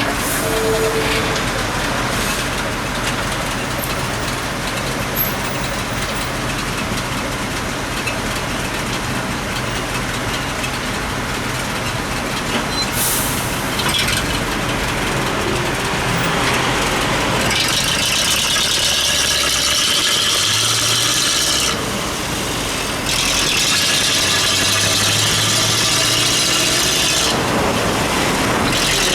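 Street traffic on a wet road: vehicle engines running and a steady hiss of tyres on wet tarmac. The hiss grows louder about two-thirds of the way in, drops out briefly, then returns.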